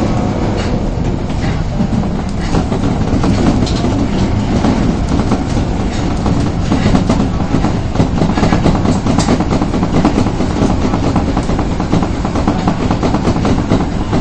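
Subway train running at speed, heard from inside the car: a steady low rumble with the wheels clicking over rail joints.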